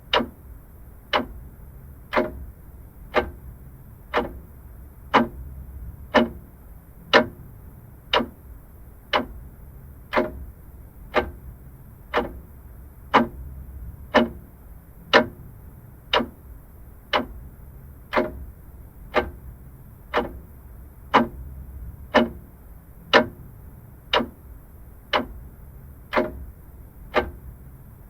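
Vintage mechanical clock ticking steadily, about one tick a second, over a faint low hum.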